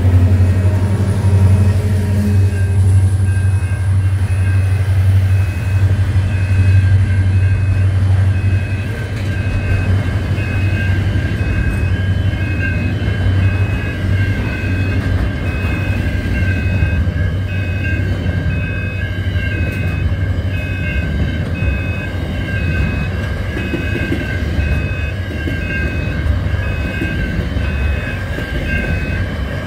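Diesel freight train passing a level crossing at close range: the locomotives' engines run loud and low for the first several seconds, then the container wagons rumble and clatter past. Throughout, a level-crossing warning bell rings in a steady repeating pattern.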